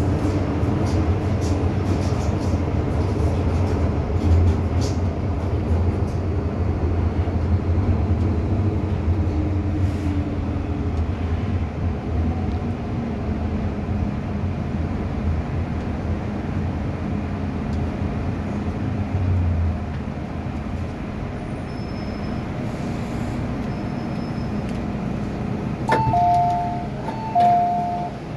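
MTR M-Train electric multiple unit running, with rumbling rail noise and a traction motor whine that falls in pitch as the train slows, then quietens about two-thirds in. Near the end a two-tone electronic chime sounds twice.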